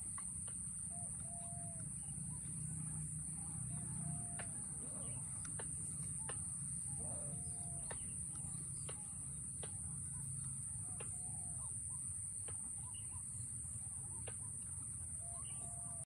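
Birds calling in the background: short, arched call notes about every second or two and scattered sharp chip notes, over a steady high-pitched buzz and a low rumble.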